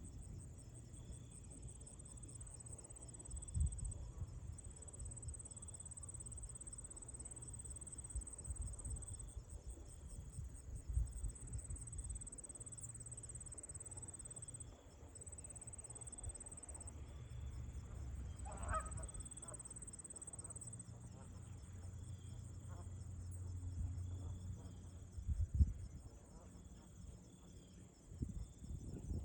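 Steady, high insect trilling, with a single goose honk a little past halfway. Beneath it runs a low wind rumble, with a few gusts buffeting the microphone.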